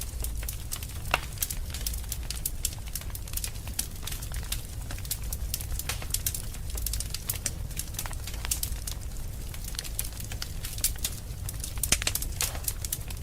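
Wood fire burning in a fireplace, crackling with many irregular sharp pops over a steady low rumble. A few louder snaps come about a second in and near the end.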